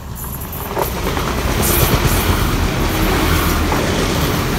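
Northern Ireland Railways diesel multiple unit passing close by, its rumble and wheel noise building over the first second and then staying loud as the carriages go past.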